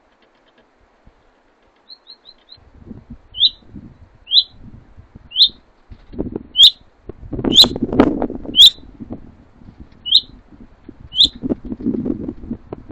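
A small songbird calling: short, sharp chirps, first a quick run of four, then single falling notes about once a second. Under them come low rustling and knocking sounds.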